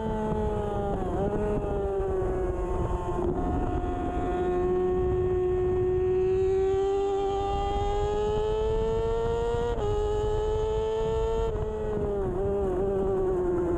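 2013 Kawasaki Ninja 636's inline-four engine running hard at high revs under race conditions, its pitch climbing steadily with brief sharp dips at gear changes about 1, 3 and 10 seconds in. There is a steady low rush of wind noise underneath.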